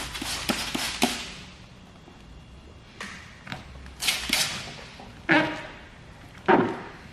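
Hand spray bottle squirting soap solution under paint protection film lifted off a car's rear hatch: a series of short hissing sprays, with a couple of dull thumps in the last few seconds.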